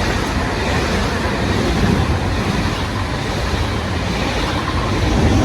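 German train passing at high speed, a loud continuous rush of wheels and air.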